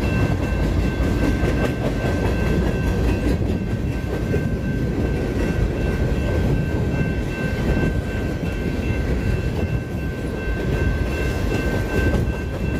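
Freight train rolling past, a steady rumble of wheels on rail with a thin, steady high whine above it.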